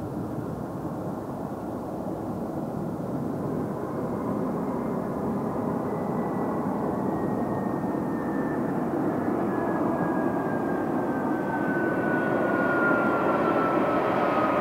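Airbus A320-200 jet engines running: a steady rumble that grows gradually louder, with a thin whine that slowly falls in pitch over the second half.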